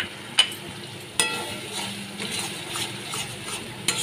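Spice paste frying in oil in a kadai, sizzling while it is stirred and pressed with a metal spatula. The spatula knocks sharply against the pan about four times. This is the bhuna stage, where the masala is fried down.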